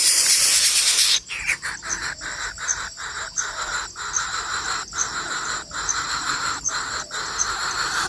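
Harsh, rasping bird calls: a loud hissing burst for about the first second, then a run of grating calls broken by short pauses about every half second.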